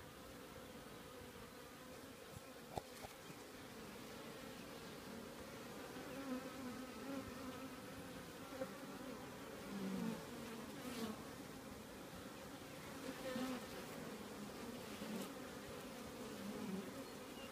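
Honeybees buzzing at a busy hive entrance: a steady hum from many bees flying in and out, with single bees buzzing louder as they pass close every few seconds.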